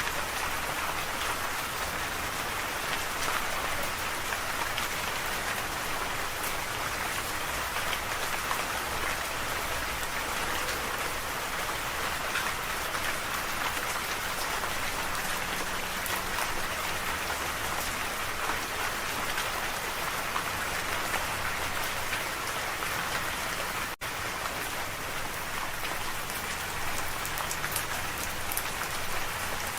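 Steady rain falling, an even hiss of drops with scattered sharper drop hits. There is a momentary dropout in the sound about three quarters of the way through.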